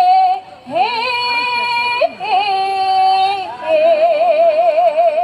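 A Javanese female singer (sinden) holding long sung notes, sliding up into each one, with a wavering vibrato on the last note.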